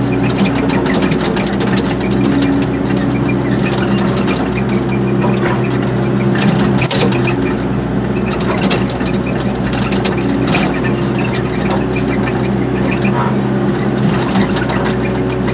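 Excavator's diesel engine running steadily under work, with frequent short clanks and rattles throughout.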